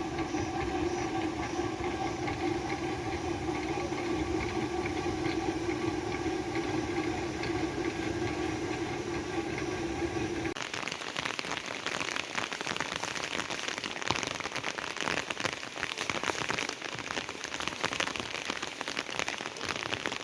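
Steady rain falling. A steady droning hum runs over it for about the first half and cuts off abruptly, leaving only the rain.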